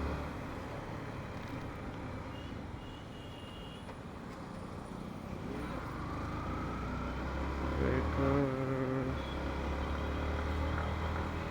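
Motorcycle riding through city traffic, heard on a helmet-mounted mic: steady engine and wind rumble with road noise. About eight seconds in, a brief pitched sound rises over it, like a passing vehicle's horn.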